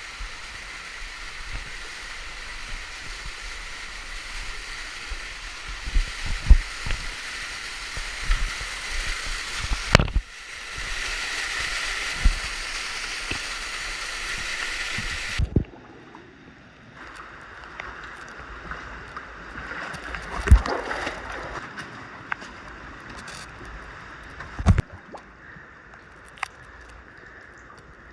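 Creek water rushing and sloshing as a steady hiss, with scattered knocks and thumps. The loud rush stops abruptly about halfway, leaving quieter flowing water and occasional sharp knocks.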